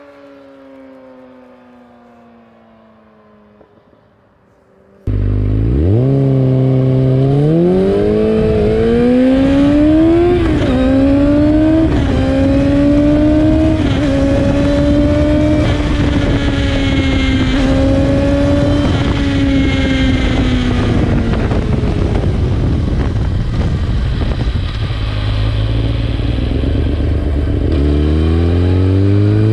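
2003 Yamaha YZF-R6's 600cc four-cylinder engine through an Akrapovic exhaust with the dB-killer removed. At first a quieter engine note falls in pitch. About five seconds in, a sudden cut brings the engine up loud, revving up through several gear changes, holding high revs, then easing off, and starting to rise again near the end.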